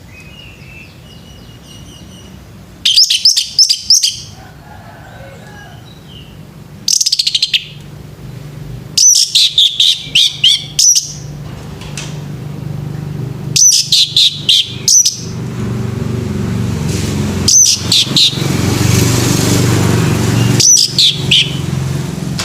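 Male orange-headed thrush singing: six bursts of fast, high twittering phrases a few seconds apart. A low hum underneath grows louder in the second half.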